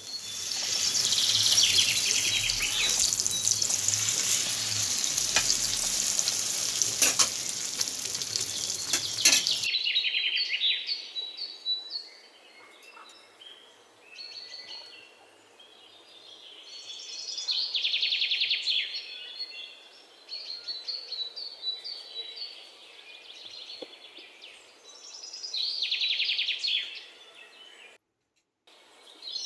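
Egg-soaked bread frying in hot oil in a pan, sizzling loudly for about ten seconds before cutting off abruptly. After that, birds chirp in short bouts over a quiet background.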